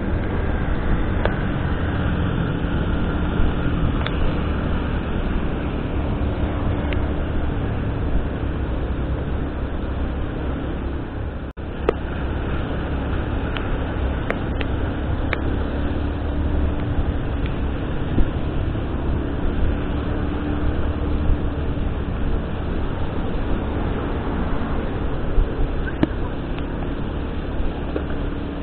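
Steady road and engine noise of a vehicle driving on wet roads in heavy rain: a low rumble with a faint engine hum and scattered small ticks. The sound drops out for a moment about twelve seconds in.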